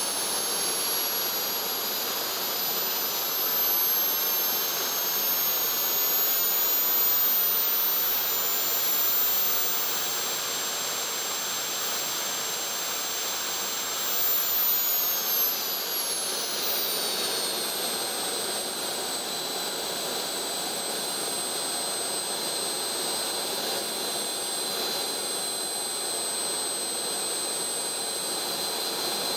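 JB130 small turbojet engine running on a test bench: a steady rush with a high turbine whine. The whine climbs slowly over the first dozen seconds as the engine speeds up, drops at about halfway as it is throttled back, and then holds steady at the lower pitch.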